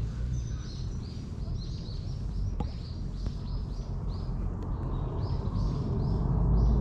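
A small bird chirping: runs of short, high, quick notes, about two or three a second. Underneath is a steady low rumble of outdoor noise that gets louder near the end.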